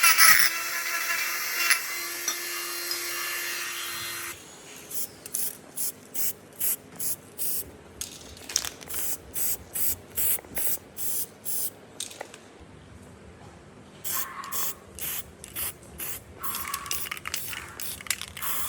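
Spraying hiss, held steady for about four seconds, then cut into a run of short bursts at about two a second, with a second run of bursts near the end.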